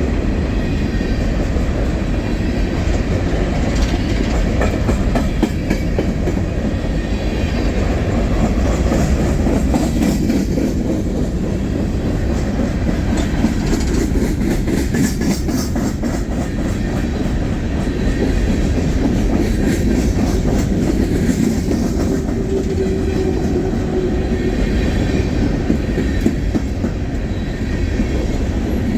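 Freight train cars rolling past at close range: a steady low rumble with clusters of clicks from the wheels passing over rail joints.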